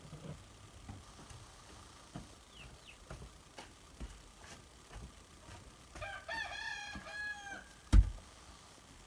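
A rooster crows once about six seconds in, a wavering call lasting about a second and a half. Just after it comes a single sharp thump, the loudest sound, with light scattered knocks before it.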